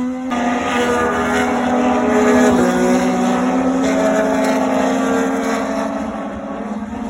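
Racing motorcycle engines at high revs on the circuit, their pitch holding, then rising and falling as they accelerate and shift.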